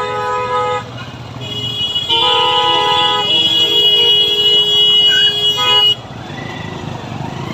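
Vehicle horn honking on the road: one short honk, then a long honk of about four seconds, with a steady traffic and engine rumble underneath.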